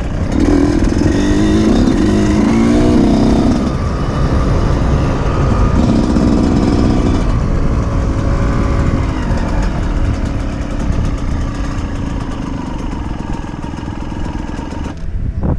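Off-road motorcycle engines revving over rough ground, with loudest bursts in the first few seconds and again around six seconds in. These are other bikes running, since the rider's own machine is out of fuel.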